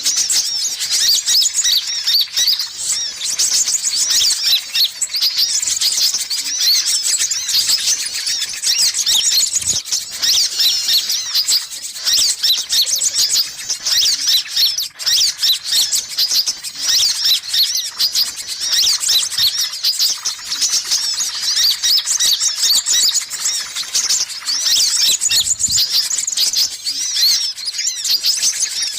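Continuous, busy high-pitched chirping and twittering of sunbirds, a stream of rapid short notes used as a pikat lure call to draw in sunbirds.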